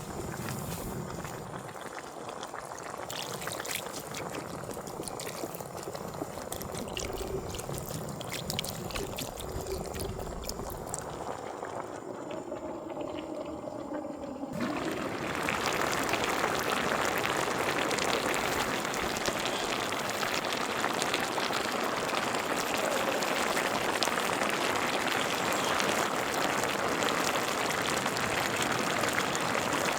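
Pork bone soup bubbling in a cast-iron cauldron lid: a liquid noise with scattered clicks that steps up suddenly about halfway through to a louder, steady bubbling hiss.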